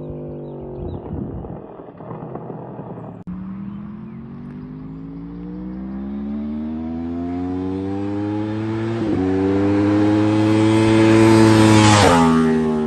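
2014 Yamaha R1's inline-four engine through an open Toce aftermarket exhaust, crackling with exhaust pops in the first few seconds. It then accelerates toward and past, its pitch rising through the revs with a brief dip for a gear shift about nine seconds in, and drops sharply as the bike passes near the end.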